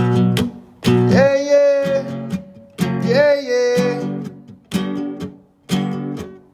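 Music: an acoustic guitar strumming chords about once a second, with a long held wordless sung note twice over it.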